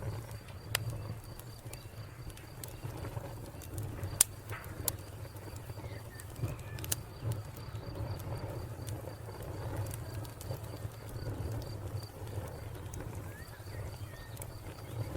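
Wood fire crackling, with scattered sharp pops over a low steady rumble; the loudest pop comes about four seconds in. A cricket chirps in an even, steady pulse throughout.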